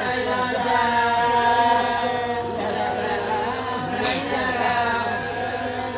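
Voices singing in long held notes that glide from one pitch to the next, over a steady low hum.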